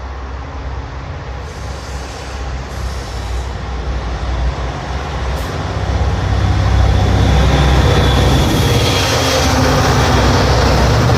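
Two diesel locomotives hauling a freight train, their engines drumming low and growing louder as the train closes in, loudest from about seven seconds in, with a thin high whine about eight seconds in.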